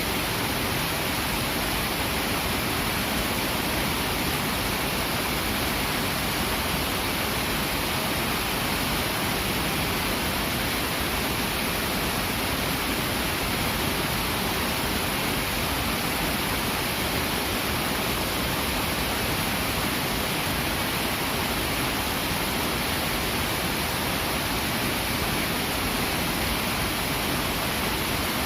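Clear, fast-flowing river rushing steadily over its bed: an even, unbroken hiss of moving water, strongest in the upper range.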